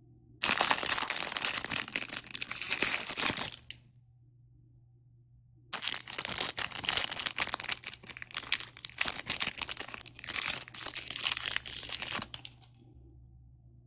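Plastic toy packaging being crinkled and torn open by hand, in stretches of a few seconds with short pauses between.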